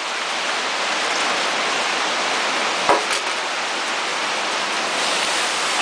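Heavy rain falling, a steady hiss, with a single light click about three seconds in.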